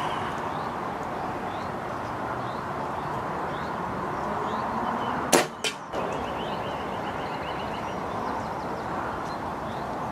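Steady wind rushing over the microphone. About five seconds in, a single sharp crack of a pre-charged pneumatic air rifle firing a .177 pellet, followed a moment later by a fainter click.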